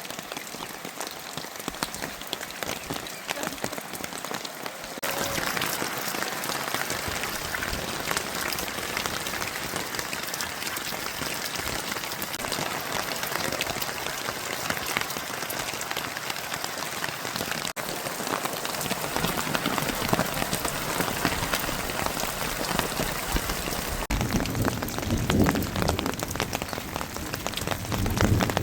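Steady rain falling and pattering on surfaces, with dense close drips. The level steps up and down a few times, and a lower rumble joins in the last few seconds.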